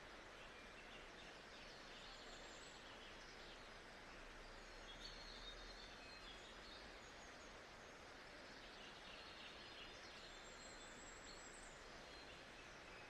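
Faint, steady white-noise nature ambience, a soft even hiss with faint bird chirps now and then.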